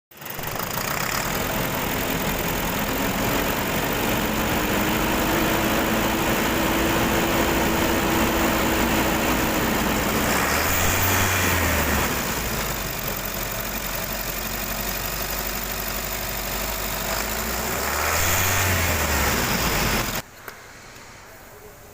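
A motor vehicle engine running loud and steady. It starts suddenly and cuts off abruptly near the end.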